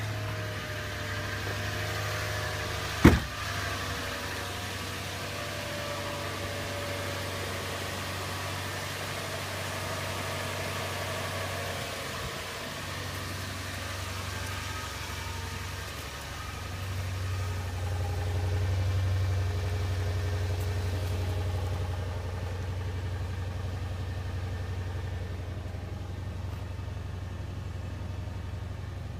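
2005 Toyota Tundra's V8 idling steadily shortly after a cold start at about 0 degrees, growing a little louder for a few seconds midway. A single sharp knock about three seconds in.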